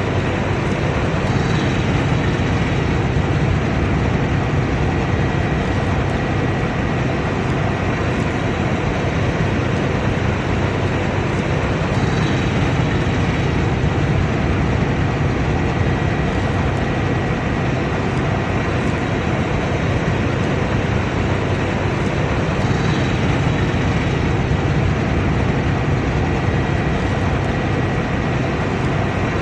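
Combine harvester running steadily under load: a constant engine and threshing-machinery din with a low hum and a faint high whine.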